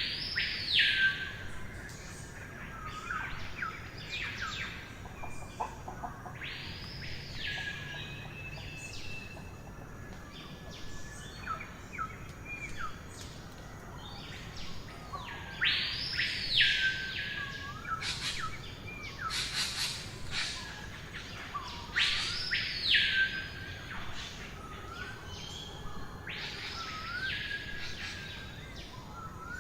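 Birds singing over a faint background hiss. One bird repeats a loud call about six times that sweeps up steeply and falls back down, while other birds add short, sharp chirps, thickest about two-thirds of the way through.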